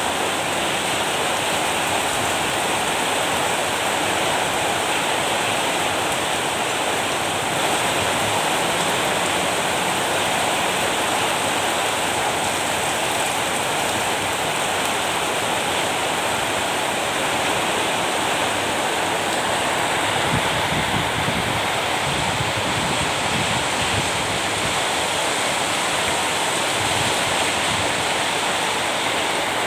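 Rain falling steadily, an even unbroken hiss with no single drops or other events standing out.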